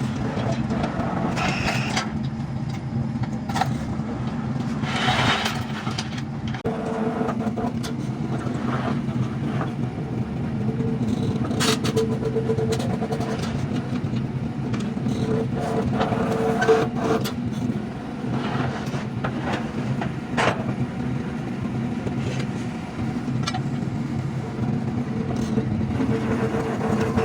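An engine runs steadily with a low hum throughout. Scattered sharp knocks and a higher tone come and go over it.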